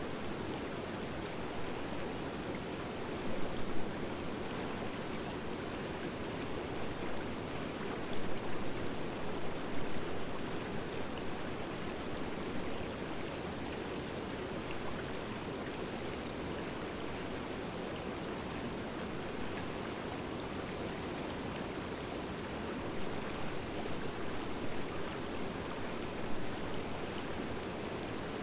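Driftwood fire burning: a steady rushing noise that swells briefly a few times.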